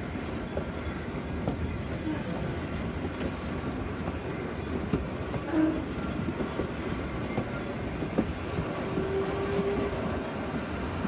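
Heritage passenger train heard from one of its wooden carriages as it runs along the track: a steady rumble of wheels on rail with scattered clicks over the rail joints.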